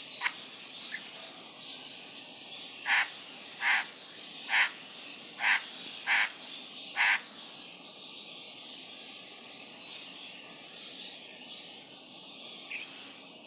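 A bird calling six short times in a row, about one call every second, over a steady faint background hiss.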